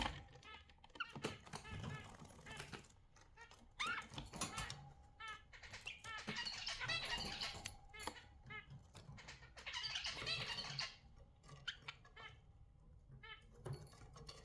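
Budgerigars chattering and warbling in quick, short chirps, with louder stretches of dense chatter in the middle and near the end, and a few sharp clicks.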